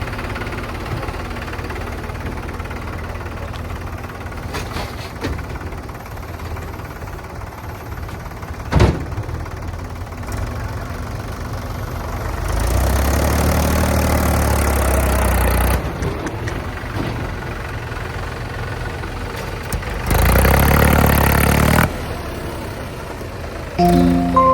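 Diesel engine running steadily, with a single sharp knock about nine seconds in. Twice the engine sound jumps louder for a few seconds and then drops back abruptly.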